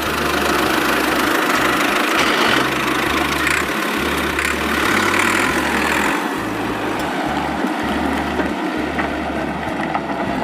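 Tractor engine running steadily at idle, with a knocking beat.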